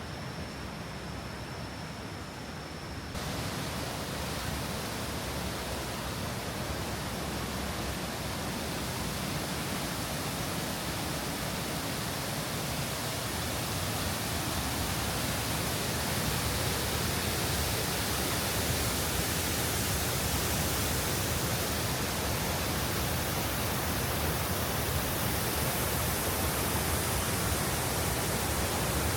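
Nungnung Waterfall's falling water, a steady rushing noise that jumps louder and brighter about three seconds in and then keeps growing slowly louder. A thin, steady high tone sounds over it until that jump.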